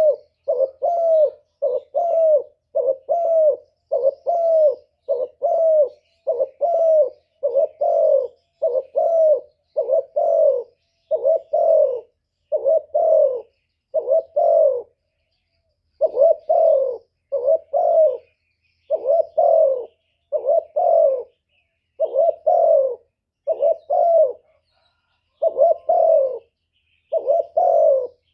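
Spotted dove cooing in a long run of short, rapid coos, about two a second, pausing briefly twice, the driving coo of a decoy male. Faint high chirps from other small birds sit behind it.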